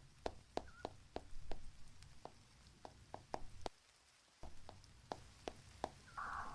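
Close-miked ASMR chewing of fresh fruit: a run of crisp little crunches about three a second, pausing briefly midway, with a soft breathy whisper starting near the end.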